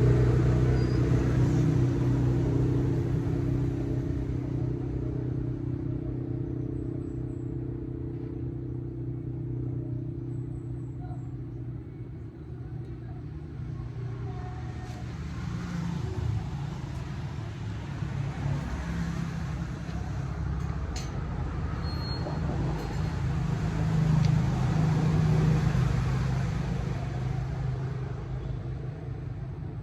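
Motor vehicle engines running: one engine's hum fades away over the first dozen seconds, then another builds up, is loudest about 25 seconds in, and fades again, like vehicles passing by.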